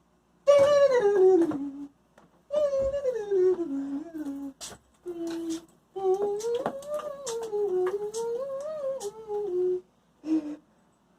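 A drawn-out, wavering voice in five long calls, each sliding up and down and falling in pitch toward its end, the longest lasting about four seconds.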